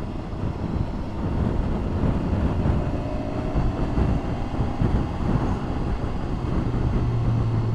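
Wind rushing over the microphone of a moving motorcycle, with the engine running underneath and its note rising a little in the middle as the bike accelerates.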